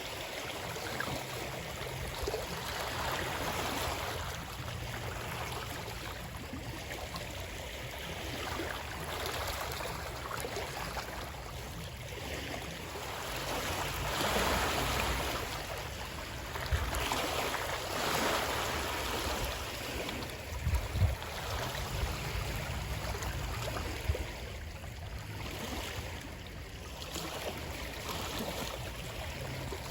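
Moving water, a steady wash that swells and eases every few seconds, with a few short low knocks in the second half.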